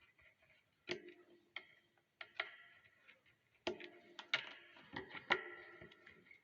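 Scissors snipping the ends off a piece of card: a series of sharp snips, about eight, some with a short ring after them, louder in the second half.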